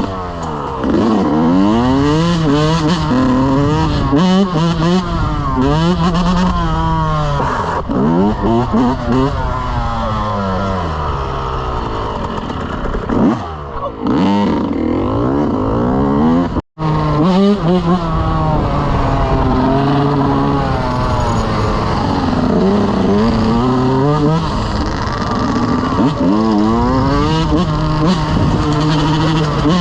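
Motorcycle engine accelerating hard and shifting up, its pitch climbing and falling back over and over, with a short cut-out of the sound about 17 seconds in.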